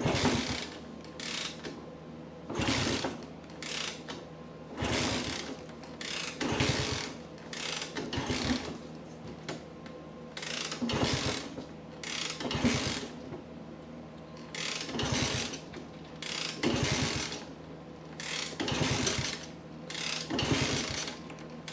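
1964 Honda C200's 90 cc single-cylinder engine being kick-started on choke about ten times, roughly once every two seconds, each kick turning it over briefly without it catching.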